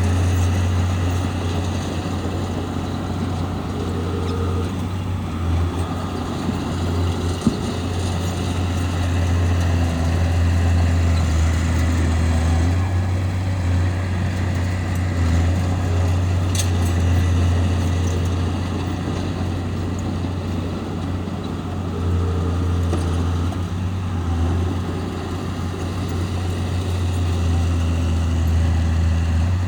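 Heavy diesel engine of a bulldozer running steadily under work, a deep drone that swells and eases as it pushes dirt, with a brief click about a quarter of the way in.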